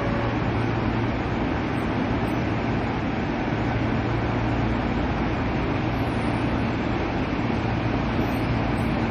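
Steady mechanical hum and hiss of an underground railway station platform, with a low hum that does not change.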